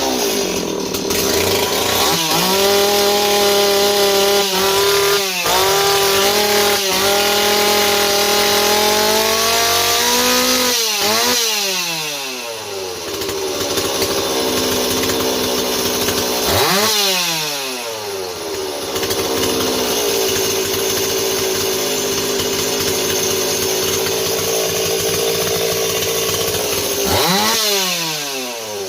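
Stihl 026 two-stroke chainsaw starting and running, its carburettor mixture screws just opened a quarter turn each. The engine's speed swings sharply three times.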